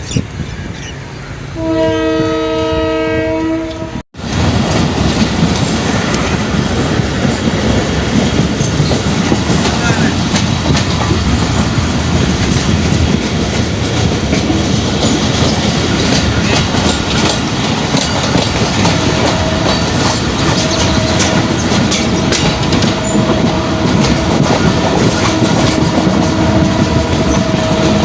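A passenger train's horn sounds steadily for about two seconds, then breaks off abruptly. The loud rumble and clickety-clack of the train running on the rails follows. A fainter steady tone joins in over the last third.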